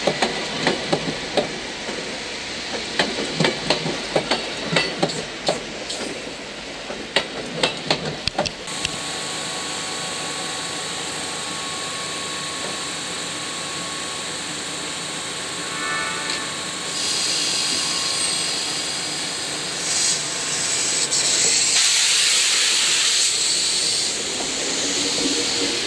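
Seibu 10000-series electric train rolling slowly, its wheels clicking and knocking over rail joints and points. Then, close to the underframe, its equipment runs with a steady hum and faint whine, broken by loud bursts of hissing air later on.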